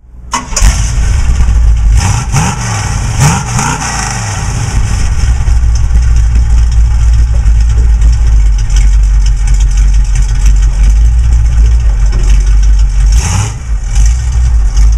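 Cammed Cadillac 500 cubic inch V8 in a 1978 Chevy pickup street rod, revving up and down a few times in the first seconds, then running loud and steady.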